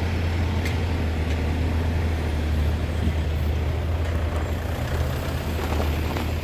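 Heavy tronton truck's diesel engine running with a steady low rumble.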